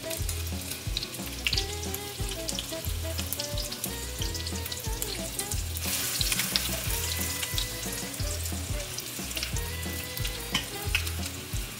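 Breaded chicken roll-ups sizzling and crackling as they shallow-fry in sunflower oil in a stainless steel pan while being turned, the sizzle growing louder about six seconds in. Background music with a steady beat underneath.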